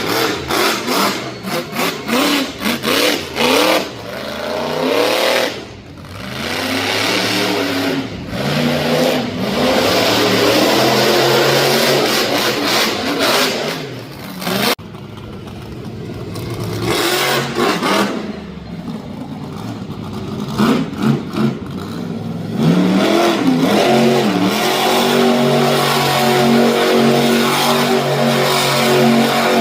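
Monster truck engine revving hard again and again, its pitch climbing and falling with the throttle, with short drops between bursts and an abrupt break about halfway through.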